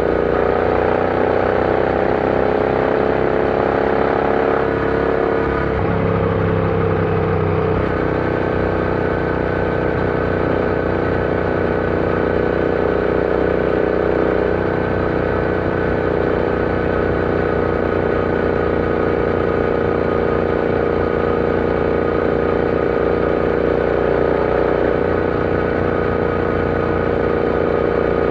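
Royal Enfield Interceptor 650's parallel-twin engine running on the road. The engine note changes about six seconds in, then holds a steady cruise.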